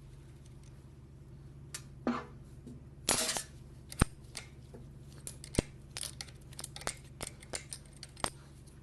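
Hand tools and metal engine parts being handled: a short scraping rattle about three seconds in, then a few sharp metallic clicks and clinks with a run of lighter ticks between them.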